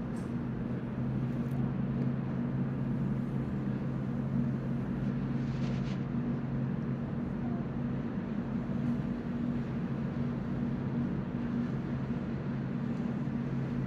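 Steady low hum of ship machinery with an even wash of noise; a low tone in it is stronger for the first half and then eases off.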